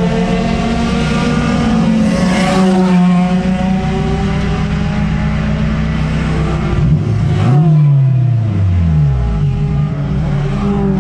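Engine running hard at high revs, its pitch falling steeply about seven and a half seconds in as the revs drop, then climbing again.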